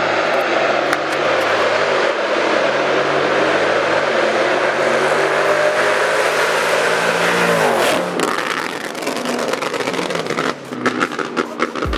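Muscle car engine pulling hard at high revs, with an exhaust roar. About eight seconds in the revs fall away and the sound drops off.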